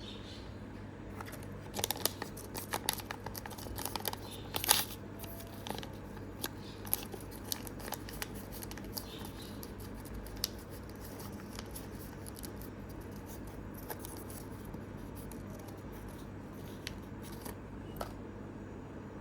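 Small plastic toy pieces and packaging being handled close to the microphone: a quick flurry of light clicks and snips a couple of seconds in, then scattered ticks, over a steady low hum.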